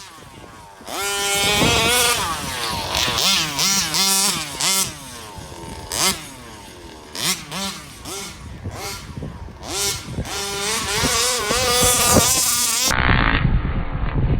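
34cc Rovan two-stroke engine in an RC Baja running and revving, its pitch rising and falling over and over with quick throttle blips as the car is driven. Near the end the sound turns rough and noisy.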